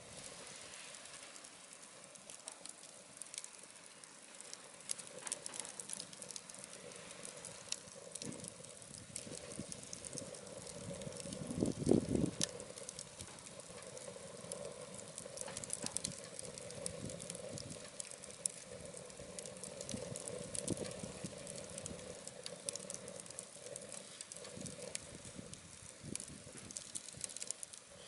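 Scrap-wood fire burning in a wood stove, crackling with many scattered small pops and ticks over a steady low flame rush. About twelve seconds in there is a louder rumbling burst lasting about a second.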